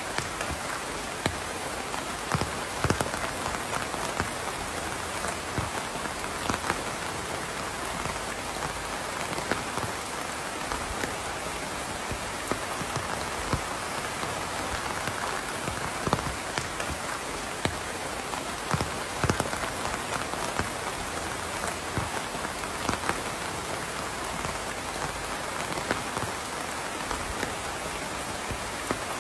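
Steady rainfall falling on a surface, with a constant hiss and scattered louder individual drops hitting close by.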